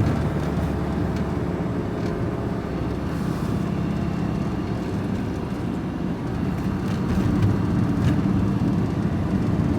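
Steady engine and road rumble inside the cab of a van driving along a main road.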